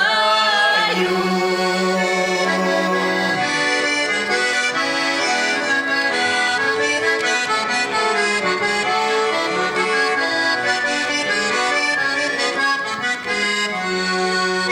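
Accordion playing an instrumental break between verses of a Russian folk song, with chords and melody over a held bass note.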